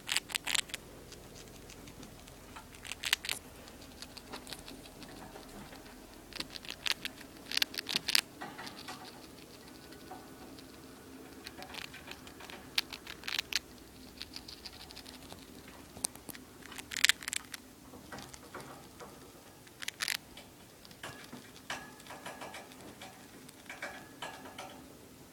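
A small animal crunching and nibbling a dry cracker: irregular bursts of crisp crunching clicks with short pauses between them.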